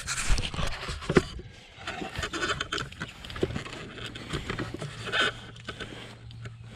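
Work under a shed with a jack and timbers: irregular knocks, clicks and scraping, with the sharpest knocks about a second in.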